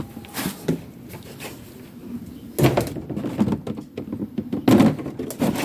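Rustling, scraping and knocks of frost covers being handled and pulled off garden plants, with louder scuffling bursts about two and a half and five seconds in.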